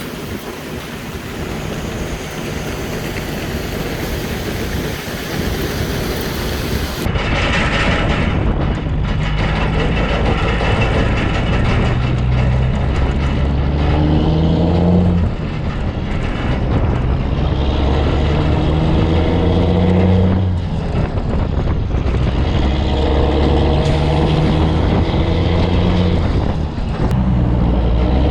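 Wind noise for about seven seconds, then a semi truck's diesel engine pulling through the gears, its pitch climbing and dropping back at each upshift several times.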